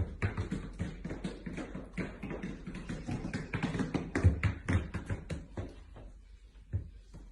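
A quick, irregular run of taps and knocks, several a second, thinning out near the end.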